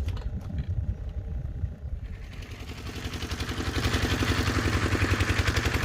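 A small engine running with a fast, even beat, growing louder about two seconds in.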